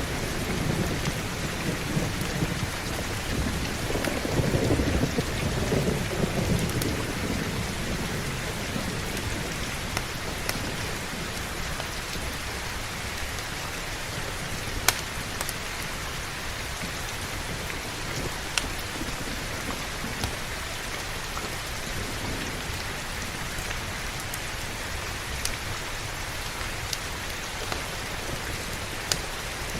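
Heavy, steady rain with a low rumble of thunder that swells over the first several seconds and then fades. A few sharp single clicks stand out over the rain later on.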